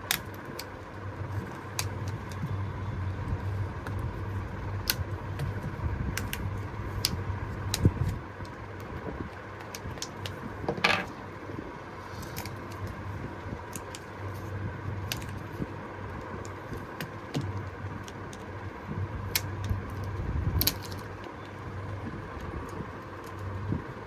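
Scattered sharp clicks and light metallic taps of small tools and phone parts being handled during phone repair, with a fuller knock about halfway through, over a steady low hum.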